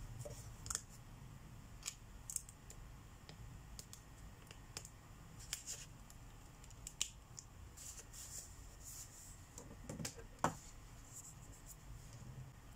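Marker tips scratching in short strokes on colouring-book paper, with scattered small clicks and taps. The sharpest click comes about ten and a half seconds in.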